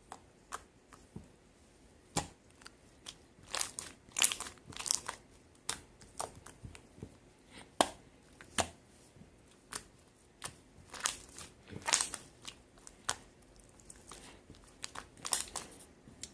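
Slime being squeezed, pressed and stretched by hand, making irregular sharp pops and crackles, some much louder than others.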